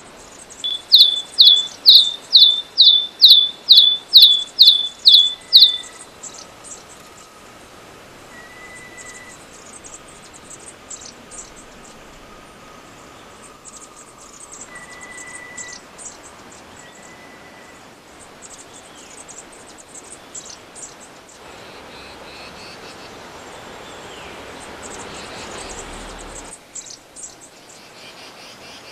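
A bird calling: a loud series of about eleven sharp, upward-sliding high notes, roughly two a second, which stop about six seconds in. Fainter high chips and a few short whistled tones follow over a steady background of insects.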